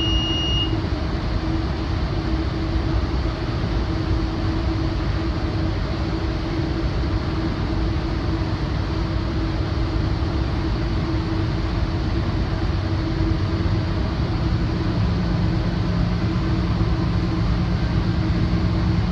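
Moving commuter train heard from inside a Rotem cab car coupled right behind a GE AC4400CW diesel locomotive: steady rumble of the running train with a steady drone. The cab's alerter beep, a high steady tone, cuts off less than a second in, and a lower steady hum joins about 15 seconds in.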